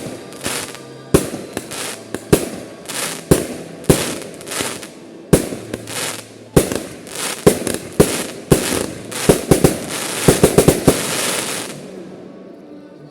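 Fireworks display: aerial shells bursting with sharp bangs about once a second over a steady crackling hiss. Near the end the bangs come in a rapid cluster, then the noise dies away.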